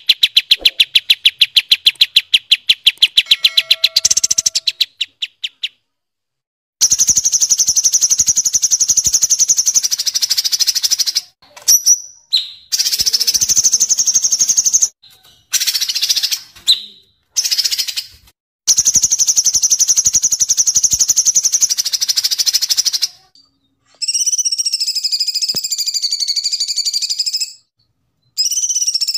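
Recorded song of the Indonesian songbirds known as kapas tembak and cucak cungkok. It opens with a fast rolling trill of rapidly repeated notes. After a short silence come long, high trills broken by brief pauses, and a wavering, whistled phrase near the end.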